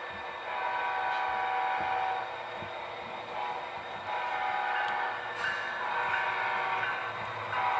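Sound-equipped HO scale model locomotive's chord horn blowing four long blasts in a row, the last one starting near the end.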